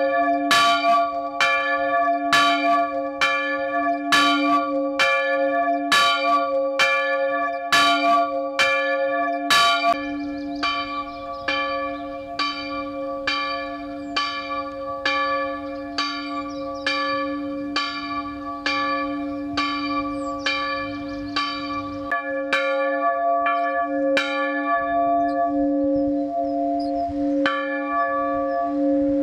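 Swinging bronze church bell, the d2 bell cast by Borchardt Gelgeter in 1596, ringing for a service with about one clapper stroke a second over a steady hum. After about ten seconds the strokes grow weaker as the bell slows, and near the end they stop, leaving the bell humming as it rings out.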